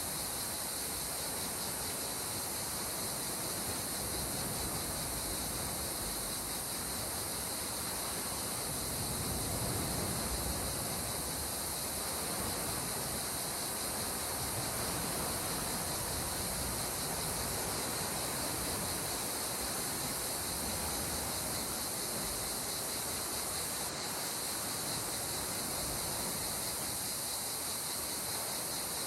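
Gentle sea water washing steadily at the shore, swelling slightly about ten seconds in, under a continuous high drone of insects.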